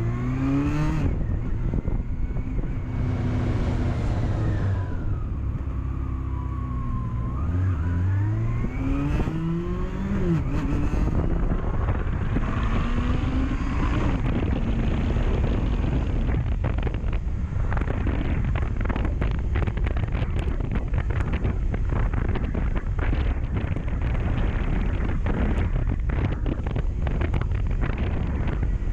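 Honda CB400SF inline-four engine accelerating through the gears, its pitch climbing and dropping at each shift over the first ten seconds or so. After that, wind rushing and buffeting over the microphone at riding speed covers most of the engine.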